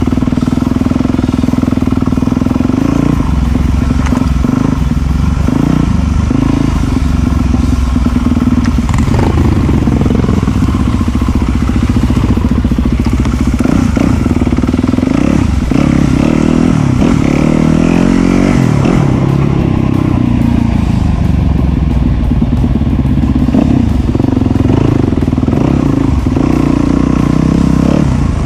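Enduro dirt bike engine running throughout, its revs rising and falling over the ride, with clattering from the bike. Early on the rider is slowing on engine braking alone on slippery mud, with no brakes.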